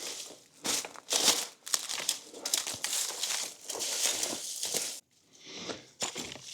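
Dry leaves and brush rustling and crunching in irregular bursts, with a short lull near the end.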